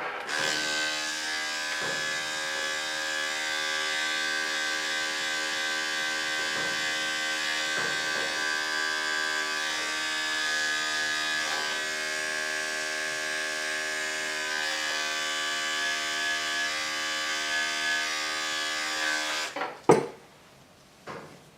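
Electric dog grooming clippers running with a steady buzzing hum, switched on at the start and switched off about 19 seconds in, followed by a single knock.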